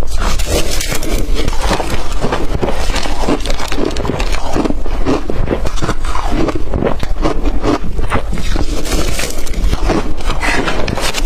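Blender-crushed ice being bitten and chewed: a dense, continuous run of crisp crunches.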